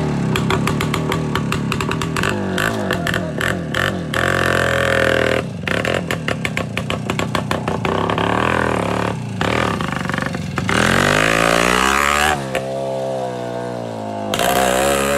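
Voskhod 3M's 175 cc two-stroke single-cylinder engine, just kick-started, running and revving up and down through an exhaust with the muffler baffle inserts removed. It is unreal loud, with popping in the exhaust.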